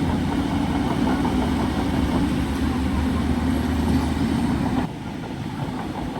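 A bulldozer's heavy diesel engine running steadily with a deep hum. About five seconds in the sound drops suddenly to a quieter, rougher engine rumble.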